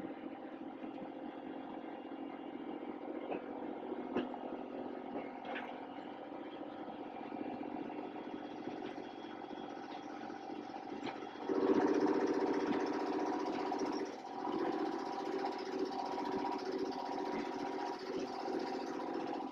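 An engine running steadily, with a sudden rise in level about twelve seconds in that holds to the end.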